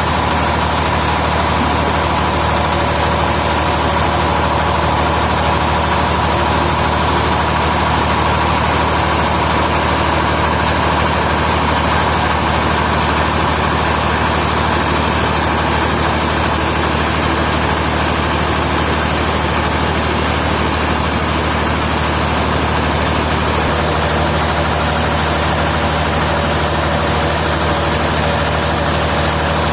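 Sawmill machinery's heavy engine running steadily: an even low hum with a faint steady whine above it, with no change in load.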